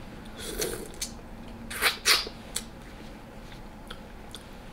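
Close-up eating sounds of someone chewing oxtail: a few wet smacks and small clicks, the loudest pair about two seconds in.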